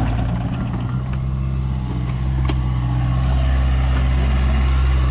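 Heavy land-clearing machine's diesel engine running at a steady speed, a loud, even low drone.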